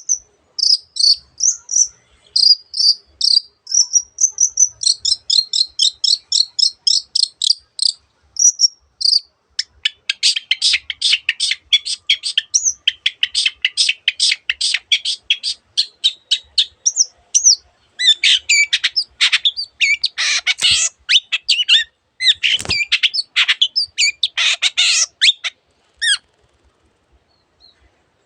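Long-tailed shrike singing a varied song: clear whistled notes for the first several seconds, then a long run of rapid, rattling chatter, then harsher scratchy calls that stop a couple of seconds before the end.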